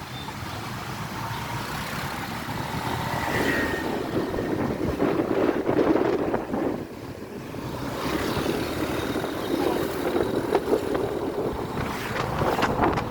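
Motorbike running while being ridden, with wind buffeting the microphone.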